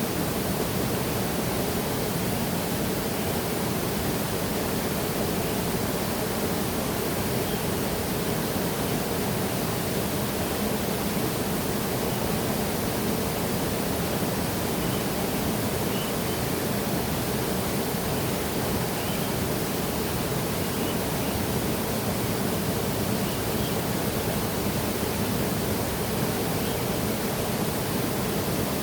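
Waterfall: a steady, unbroken rush of falling water. Faint high chirps, perhaps birds, come and go over it.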